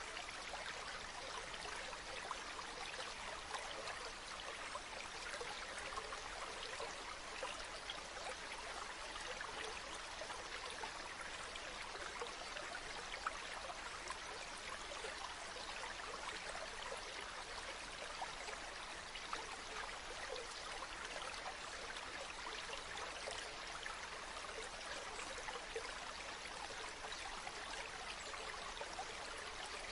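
Water from a spring running and trickling steadily, with a fine, continuous babble of small splashes.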